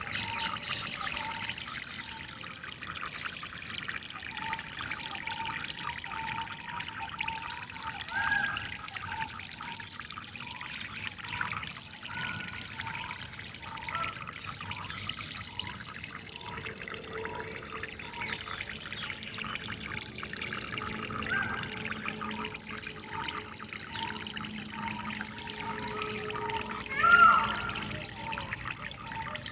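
Water trickling and splashing over stones in a steady stream. Above it a bird repeats one short note over and over, about one to two times a second, and a few other bird calls come through, the loudest near the end.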